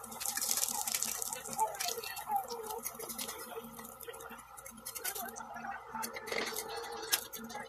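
Slices of luncheon meat frying in hot oil in a stainless steel pan: a sizzle with scattered crackles and spits. A metal fork clicks and scrapes against the pan as the slices are lifted out, more so toward the end.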